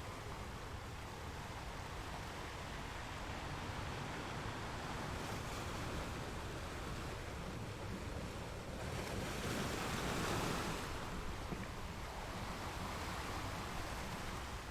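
Sea waves: a steady rush of surf, with one wave swelling and breaking loudest about nine seconds in, then washing back down.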